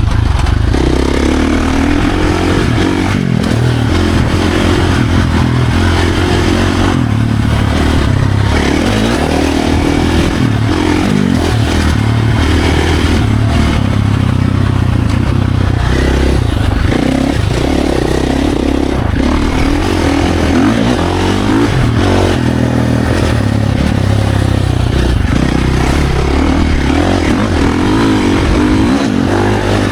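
Dirt bike engine being ridden hard on a trail, revving up and falling back again and again, loud and continuous.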